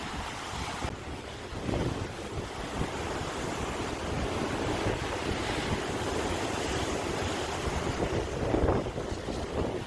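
Sea waves breaking and washing in a continuous rushing surf, surging louder about two seconds in and again near the end.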